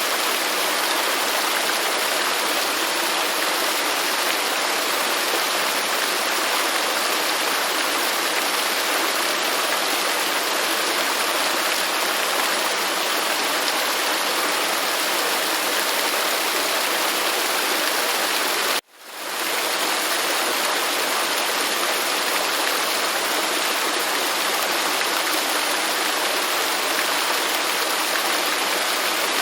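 Steady rushing of a waterfall. About two-thirds of the way through it cuts out for a moment and fades back in.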